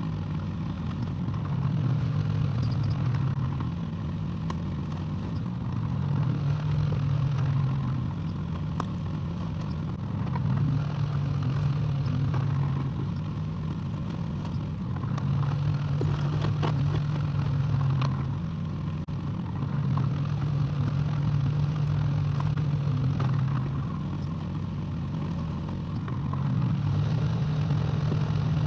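Excavator engine running steadily, its note swelling louder for two or three seconds about every four to five seconds, with a few scattered knocks and clanks.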